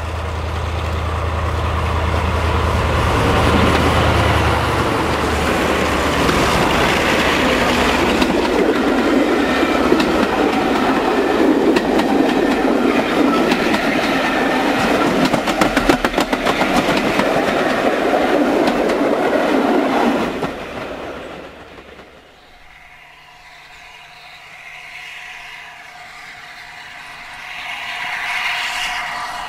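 A diesel-hydraulic main-line locomotive passes close by, its engine drone dropping away about five seconds in. Its train of coaches follows, rolling by with a loud, steady wheel clatter that stops abruptly about twenty seconds in. Near the end, the steam locomotive 60163 Tornado, an A1 Pacific, can be heard approaching and growing louder.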